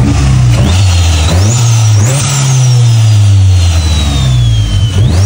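Turbocharged car engine accelerating hard, its pitch climbing in quick steps through gear changes with a high turbo whine rising alongside. It then eases off, the engine note and whine falling slowly together, before it pulls hard again near the end.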